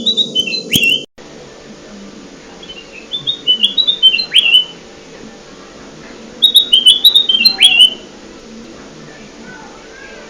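Kutilang emas song played as a bird-lure recording: three short phrases of quick, stepped whistled notes, each ending in a sharp downward slur, spaced a few seconds apart over a faint steady hum.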